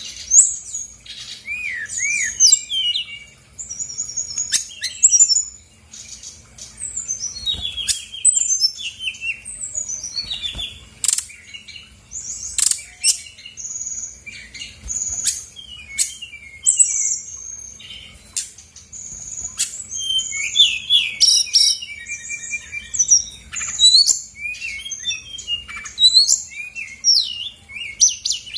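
Brown-chested jungle flycatcher singing a fast, continuous, varied song of short chirps, upward and downward whistled glides and trills, with mimicked phrases mixed in.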